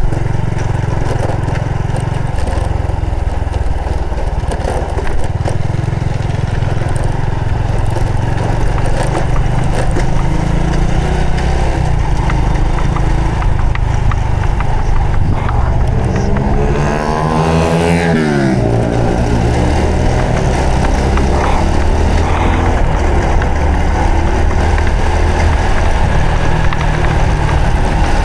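Honda Supra X 125 FI's single-cylinder four-stroke engine running on the move, under heavy wind rumble on the microphone. About two-thirds of the way through, an engine pitch climbs for a second or so, then drops sharply.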